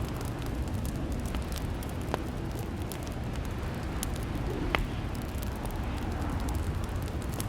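Fireplace fire crackling: a steady low rumble of burning with irregular sharp pops and snaps, one louder pop near the end.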